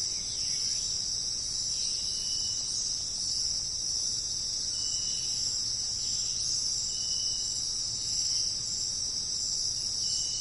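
A steady, high-pitched insect chorus of crickets or similar insects. A short, high, even note repeats about every two to three seconds over it.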